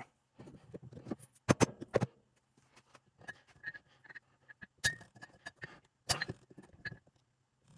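Metal parts and hand tools clinking and knocking irregularly while a 231J transfer case is taken apart, with a few sharp clanks.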